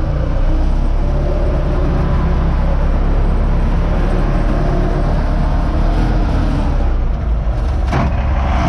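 Universal U650 tractor's diesel engine running steadily, with a single short knock about eight seconds in.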